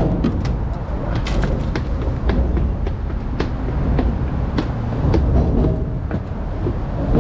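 Bicycle riding sound: a steady rumble of wind on the microphone with many sharp rattling clicks as the bike moves along.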